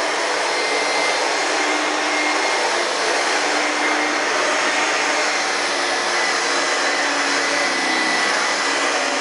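Late-1980s Singer twin-turbo upright vacuum cleaner, built by Ryobi, running steadily on carpet with a powered beater brush, a really loud, even rushing noise with a faint steady whine.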